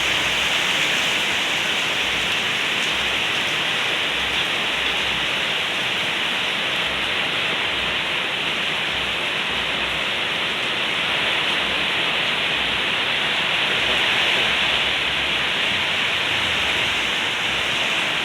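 Heavy rain falling, a steady, even downpour.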